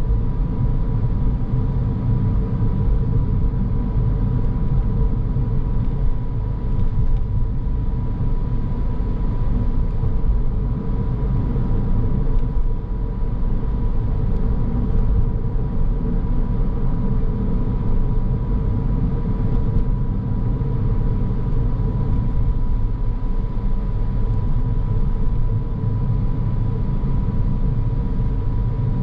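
Road noise of a car being driven: a steady low rumble of engine and tyres, with a thin steady tone above it.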